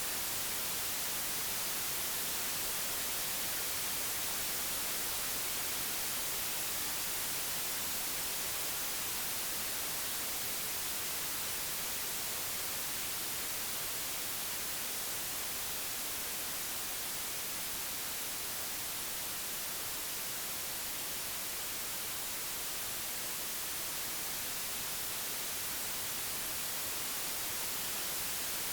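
Computer-generated white noise: a steady, even hiss with no changes.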